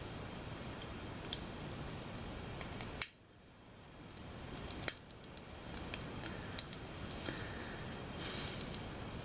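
Small hard 3D-printed plastic parts being handled and worked on: two sharp clicks about three and five seconds in, with a few fainter ticks later, over a steady low hiss.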